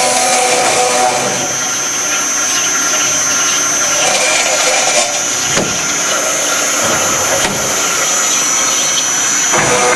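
MEP Tiger 370 CNC automatic circular cold saw running a programmed cutting cycle on metal stock, with a steady high whine from the spinning blade. The sound shifts briefly about five and a half seconds in and again near the end.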